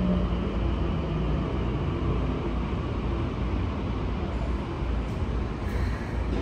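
Interior running sound of a Keikyu 1000 series electric train: a steady rumble of wheels on rails. For the first couple of seconds there is a faint Toshiba IGBT-VVVF inverter whine, which then fades out as the train slows.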